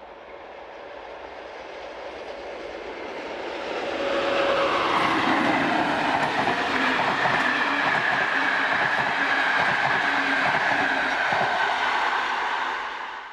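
An InterCity train hauled by a MÁV V43 electric locomotive passing at speed. Its sound builds for about four seconds, then holds loud, with wheels clattering over the rail joints under a high whine that falls slightly in pitch, and dies away just before the end.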